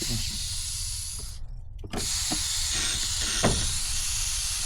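Gas hissing from a small portable camp stove as fuel escapes from the burner. It stops for a moment about a second and a half in, then comes back a little louder and runs steadily.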